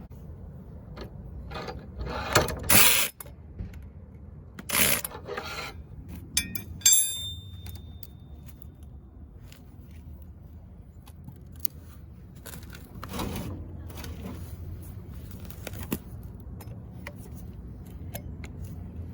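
Handling noise from tools being set up: scattered knocks, scrapes and metallic clinks, one clink about seven seconds in with a short ring, over a low steady rumble.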